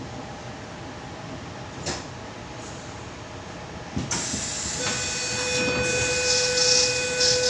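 Interior of a Sydney Tangara electric train at a station stop: a low steady hum, then about four seconds in a sudden loud air hiss as the sliding doors work. A steady electronic tone then sounds and holds through the rest of the stretch.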